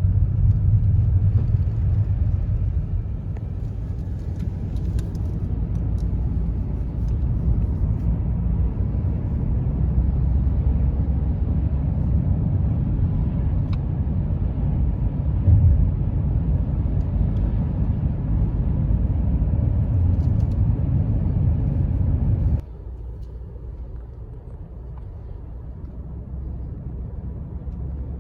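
Car on the move: a steady low road-and-engine rumble that drops suddenly to a quieter rumble about 22 seconds in.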